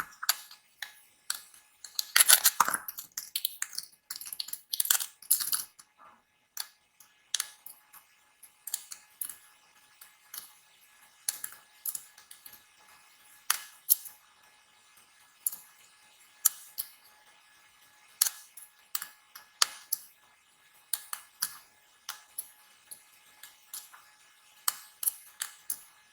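Dry bar soap being cut: crisp, crackly cuts, with two denser scraping runs a couple of seconds and about five seconds in, then single sharp snaps and clicks spaced about half a second to a second apart.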